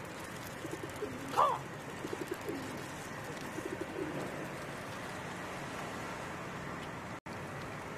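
Birds calling over a steady background hiss: one short rising squawk about a second and a half in, then two quick runs of low, rapidly repeated calls.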